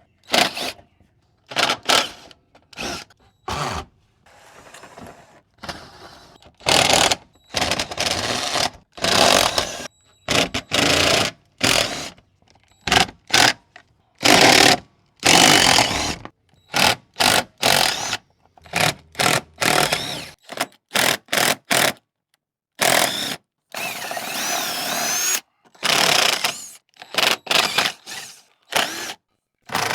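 Power drill running in many short stop-start bursts while backing out screws; one longer run near the end wavers in pitch.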